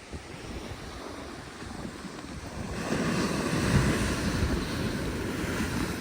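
Rough sea surf breaking and washing on the shore, swelling louder about three seconds in, with wind buffeting the microphone.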